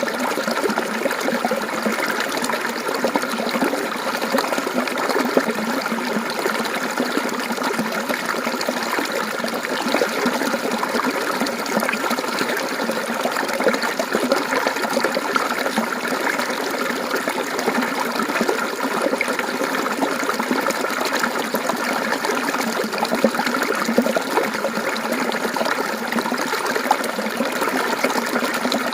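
Mountain stream water flowing and trickling over rocks: a steady, even splashing babble.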